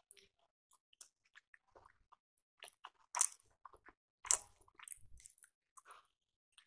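Close-up mouth sounds of a person biting and chewing rice appe (South Indian paniyaram): soft wet clicks and crackles, with two louder bites about three and four seconds in.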